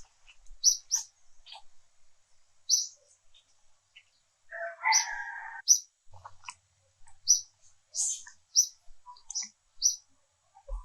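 Repeated short, high-pitched animal chirps, with one longer, lower call about halfway through.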